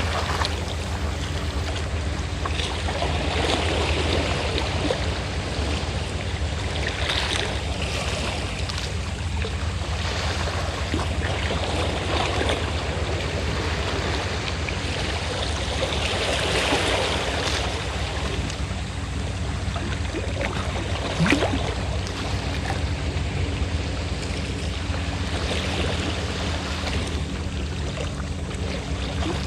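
Sea waves washing onto the shore, swelling every few seconds, over the steady low hum of a fishing boat's engine running. One brief sharp sound stands out about two-thirds of the way through.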